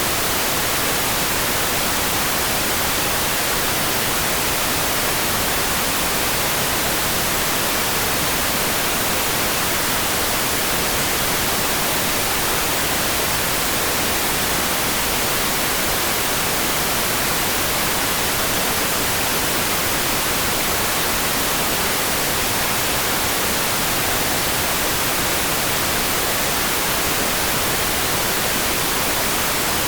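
Steady rain: a dense, even hiss with no single drops, thunder or other events standing out.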